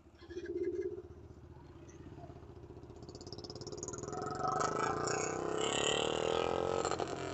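Single-cylinder TVS Apache RTR 160 4V motorcycle engine, with a short rev near the start, then accelerating, its pitch and loudness rising steadily through the gears.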